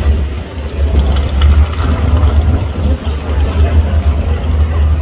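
Pro stock 4x4 Dodge pulling truck's big engine idling with a deep, steady rumble while it waits to hook to the sled.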